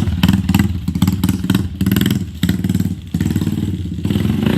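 Rusi KR-150 enduro motorcycle engine running and being revved, the throttle eased off briefly a couple of times before picking up again. The exhaust has a rough note that the owner puts down to a poor stock muffler.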